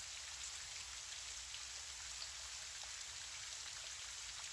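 Gentle, steady rainfall: an even soft hiss of rain with the odd faint drop.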